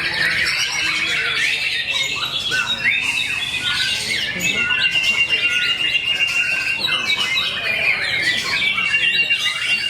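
Caged songbirds, white-rumped shamas (murai batu) among them, singing at once in a dense, loud tangle of whistles, chirps and trills. A long, even, high trill runs through the middle and starts again near the end.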